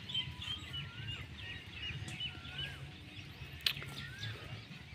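Birds calling: a run of quick high chirps, with a whistled note that rises and falls repeating about every second, and a single sharp click past the middle.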